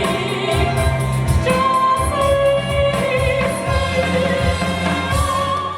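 A female singer performing a song live with instrumental accompaniment, holding long notes over a steady low bass beat.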